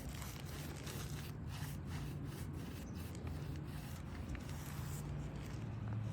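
A brush scrubbed back and forth across an asphalt roof shingle in repeated scratchy strokes that stop about five seconds in. It is a brush test of a repaired shingle, checking whether its granules come loose.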